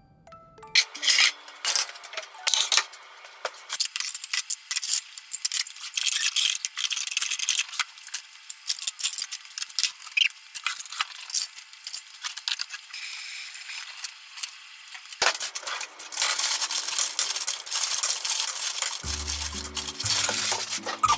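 Kitchen handling sounds: a run of sharp clicks and clinks of dishware and utensils on a stone countertop. About 15 seconds in, a fuller rustling and clatter begins as frozen green vegetables are tipped from a plastic bag into a small ceramic bowl. Light background music comes back near the end.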